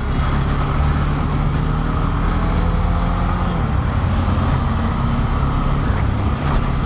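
Bajaj Dominar 400's single-cylinder engine running steadily in second gear under way, over a constant road and traffic noise.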